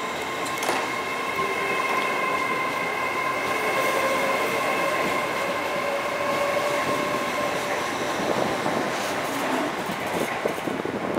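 LNER Azuma (Hitachi Class 800-series) train moving past along the platform: steady wheel-on-rail rumble with a high whine of several steady tones from its drive equipment, the whine fading out about two-thirds of the way through.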